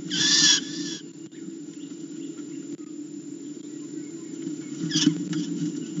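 A live captured bird screaming in distress. There is a loud harsh scream lasting just under a second at the start, and a shorter one about five seconds in.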